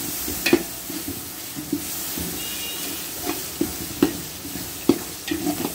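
Mutton bones, fat and onions sizzling in hot oil in a large metal pot, with turmeric just stirred in. A metal ladle stirs the pot, knocking and scraping against its side several times at uneven intervals.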